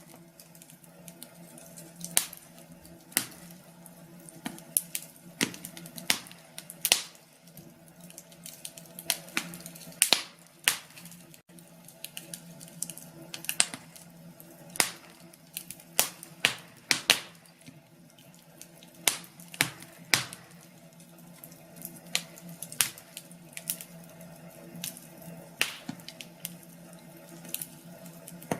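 Wood fire in a fireplace crackling, with irregular sharp pops and snaps, a few of them much louder than the rest. A faint steady low hum runs underneath.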